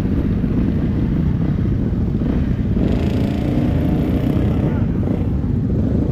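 Motorcycle running at road speed, a steady low engine note mixed with heavy wind rumble on the microphone.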